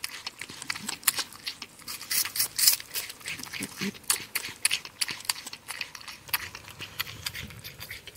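Porcupine chewing and gnawing food: a fast, irregular run of sharp crunching clicks.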